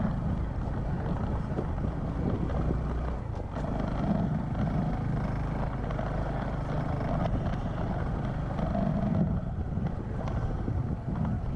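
A small motorcycle engine running steadily while under way, with wind buffeting the microphone.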